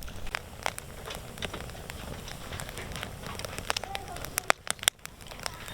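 Wood campfire crackling, with scattered sharp pops and a louder cluster of pops about four and a half seconds in.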